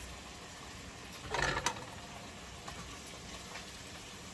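A short clatter of kitchen utensils or dishes about a second and a half in, over a faint steady simmering from the pot of chicken.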